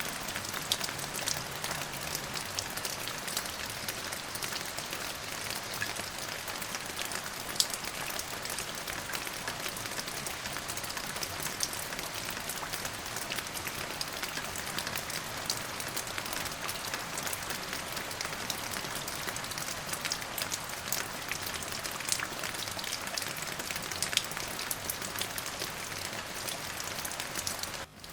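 Steady rain falling, an even hiss dotted with many sharp individual drop hits. The sound dips briefly just before the end.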